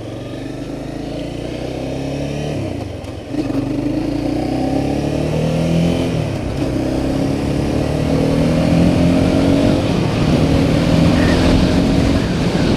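Honda CBR300R's single-cylinder engine accelerating through the gears. Its pitch climbs, drops back at an upshift about three seconds in and again about six seconds in, then climbs steadily.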